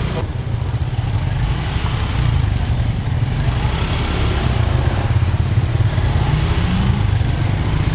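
An engine running steadily with a low rumble; its pitch rises briefly about six seconds in.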